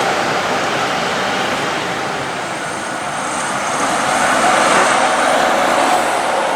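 Heavy trucks going past on the highway: a steady rush of engine and tyre noise that swells about four seconds in.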